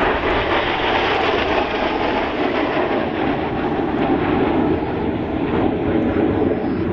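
Loud, steady jet noise from BAE Hawk jets, with Adour turbofan engines, flying past in a Red Arrows display pass.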